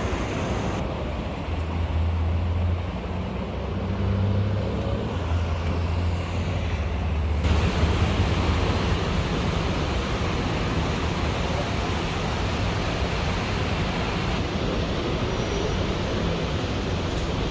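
Road traffic and vehicle engine noise: a steady low engine hum under an even rush of noise, with abrupt changes in the sound about a second in and again about seven seconds in.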